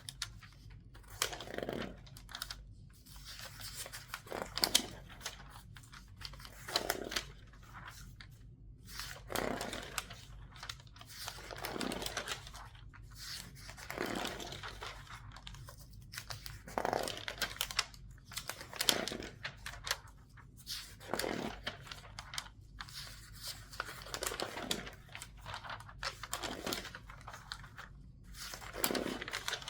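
A newspaper's pages being turned quickly one after another, each turn a crisp rustle and crinkle of paper, coming every two seconds or so, with the sheets squeezed as they are handled.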